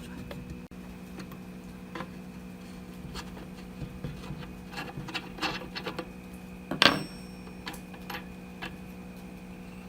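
Scattered clicks and taps of small hard parts being handled, with the loudest knock a little under seven seconds in, over a steady low hum.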